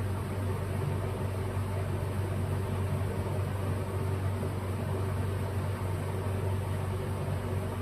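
Steady low machine hum over an even hiss, unchanging throughout, like a fan or other motor running in the background.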